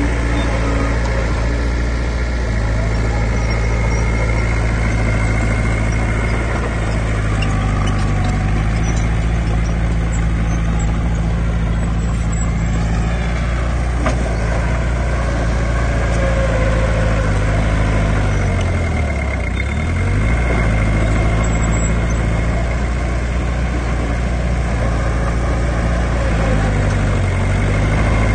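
Heavy earthmoving machine's diesel engine running steadily, with a thin high whine over it. The engine note dips and recovers sharply about two-thirds of the way through, and briefly again near the end.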